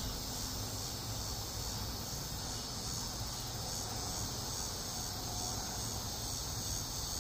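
Steady, unbroken chorus of crickets chirping, with a low steady rumble underneath.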